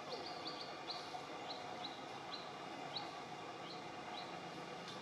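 A bird giving a run of short, high chirps, quick at first and then spacing out, over steady outdoor background noise.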